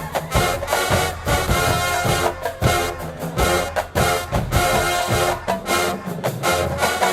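HBCU marching band playing loud, with brass sections holding chords over a steady drumline beat.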